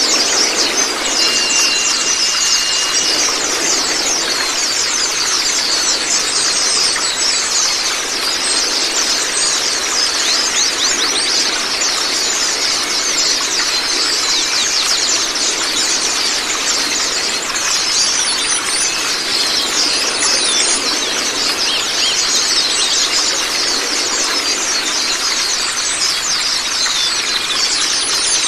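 Zosterops white-eyes (pleci) singing without a break, a dense stream of rapid, high twittering chirps, over a steady rush of running water. A short, steady high whistle sounds about a second in.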